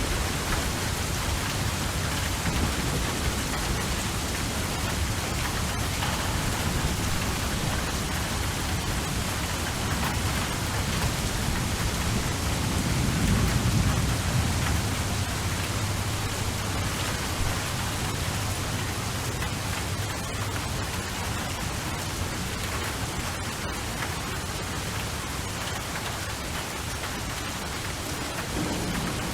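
Steady heavy rainfall, with a low rumble of distant thunder swelling and fading about halfway through.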